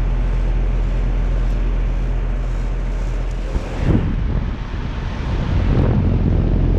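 Outdoor condensing unit of a 2012 Amana ASZ14 4-ton central air conditioner running: a steady low hum under an even airy rush. The compressor is taken by the owner to be a Copeland scroll.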